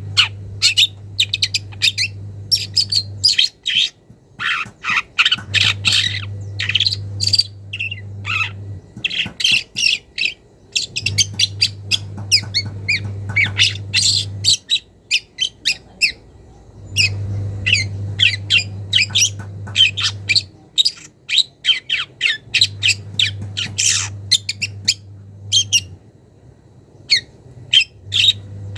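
Young long-tailed shrike singing in a fast, dense run of short harsh squawks and chirps, its song mixing in mimicked calls of other birds. A low hum comes and goes every few seconds underneath.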